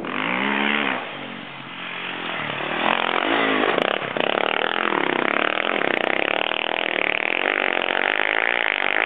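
KTM enduro motorcycle engine revving hard on a steep hill climb. The revs rise and fall over the first few seconds, then are held high and steady under load.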